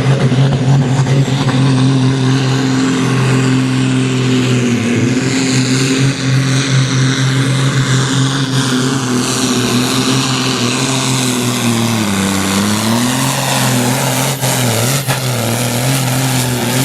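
Competition pulling tractor's engine running loud and steady, with a high whine above it; the engine's pitch sags briefly about twelve seconds in, then climbs back.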